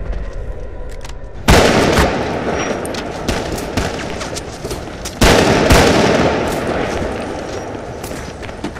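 Film gunfight sound effects: repeated sharp gunshots throughout, with two much louder booms, one about a second and a half in and one about five seconds in, each fading away slowly.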